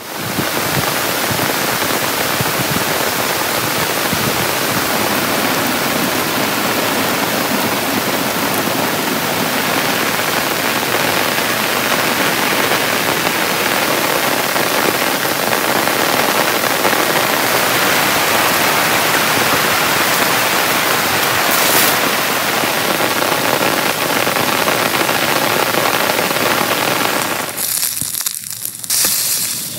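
Very heavy rain pouring steadily, a loud, dense, even hiss. Near the end it breaks up and drops away.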